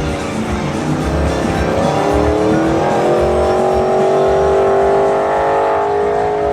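Truck engine revved up and held at high revs for a few seconds, as in a burnout, then easing off at the end.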